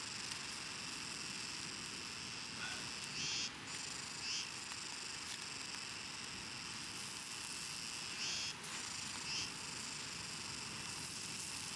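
Insects chirring steadily in high, even tones, with a few short louder swells about three, four, eight and nine seconds in.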